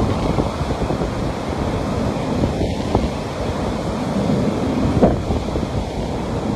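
Ocean surf washing on a beach, a steady rush of waves, with wind buffeting the microphone.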